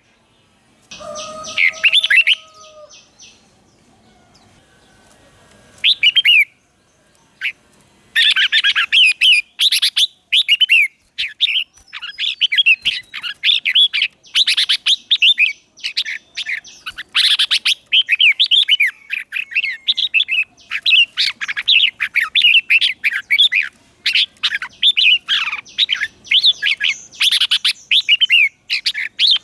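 Red-whiskered bulbul song: a few short, separate chirpy phrases, then from about a third of the way in a dense, continuous run of rapid warbling phrases.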